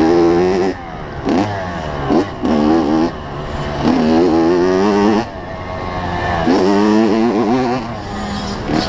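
An 85cc two-stroke motocross bike engine ridden hard: it revs up in several rising pulls, around five times, each cut off sharply as the throttle is shut, with a few short throttle blips near the end.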